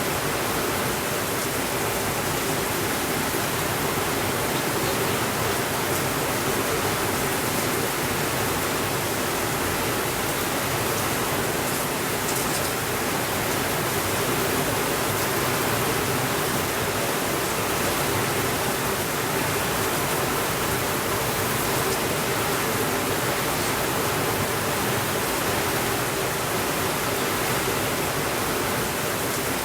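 Steady, even rainfall, a constant hiss with no changes in level.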